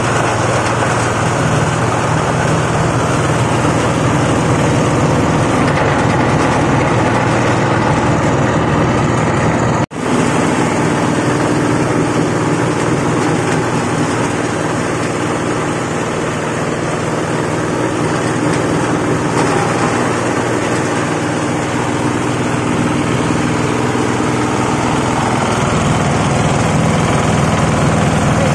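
Cloth-waste shredding machine running with a steady, loud mechanical drone; the sound cuts out for an instant about ten seconds in and then carries on.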